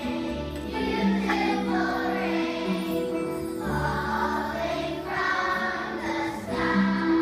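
Music with a choir singing held notes that change about once a second.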